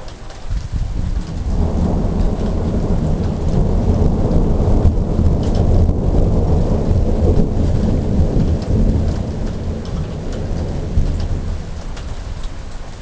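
A long rumble of thunder that builds about a second and a half in, peaks midway and slowly dies away near the end. Steady rain patters underneath throughout.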